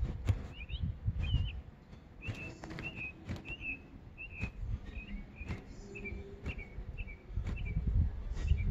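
A small bird chirping in short, repeated notes, about two a second, over a low rumble with scattered scrapes and knocks.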